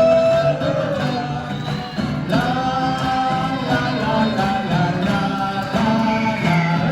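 Live folk song: acoustic guitar accompaniment under a melody line of long held notes that slide between pitches.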